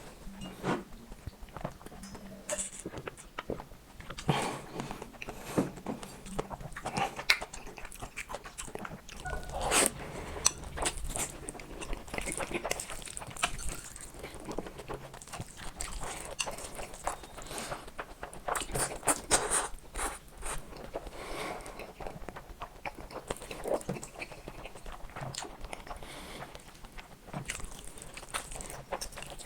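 Close-miked mukbang eating: a person chewing and biting mouthfuls of black-bean-sauce noodles and fried eggs, with an irregular run of wet smacks and clicks.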